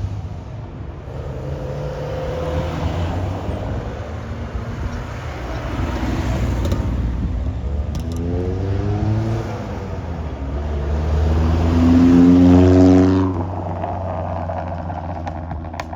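Classic car engines driving off, with one engine revving up in pitch twice. The second rise is the loudest, about twelve seconds in, and it falls away quickly as the car passes.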